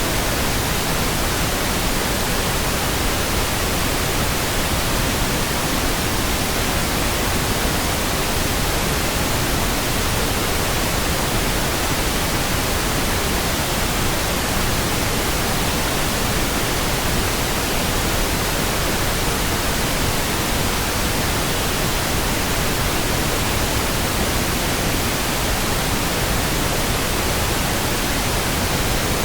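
Steady pink noise: an even, unbroken hiss.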